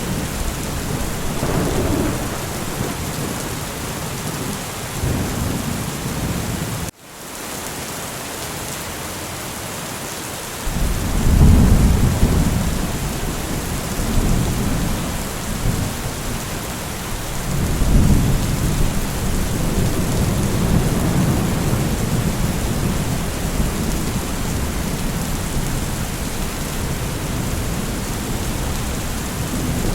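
Steady rain with low rolls of thunder, the loudest swelling about eleven seconds in and another near eighteen seconds. The sound cuts out for an instant about seven seconds in and comes back quieter for a few seconds.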